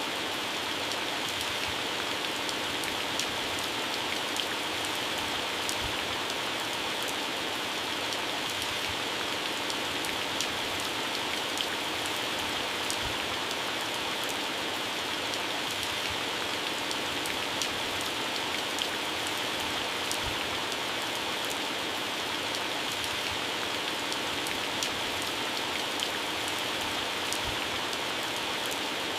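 Heavy rain falling steadily on garden plants and grass, a dense even hiss with many separate drops pattering on leaves.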